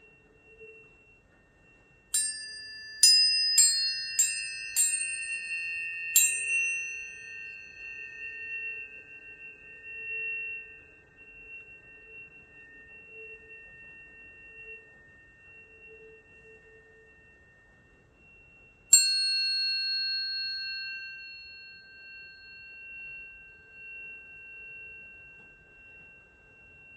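Tuning forks struck six times in quick succession, each with a bright metallic ping, leaving several overlapping high tones ringing on and slowly fading; one more strike about two-thirds of the way through sets the tones ringing again to the end.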